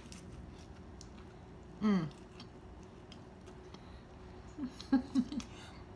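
A woman chewing a mouthful of crispy fried chicken sandwich, with small wet mouth clicks, a falling 'mm' of enjoyment about two seconds in and a few short hums near the end.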